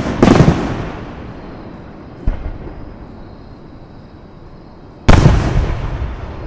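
Aerial fireworks shells bursting: a loud boom at the very start, a fainter one about two seconds in, and another loud boom about five seconds in, each rolling off over a second or so.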